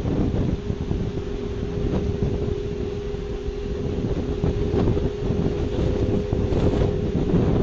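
A steady, unexplained droning hum of two close tones in the low-middle range, with rumbling wind noise on the microphone growing slowly louder.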